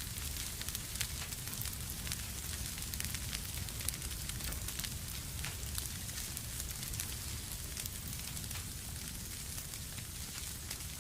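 Wood fire burning in a fireplace: frequent small crackles and pops over a steady low rumble of the flames.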